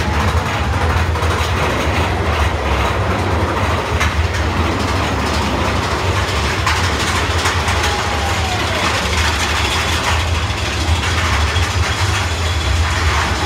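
Big Thunder Mountain Railroad mine-train roller coaster rolling along its track, a steady low rumble with wheel and track noise.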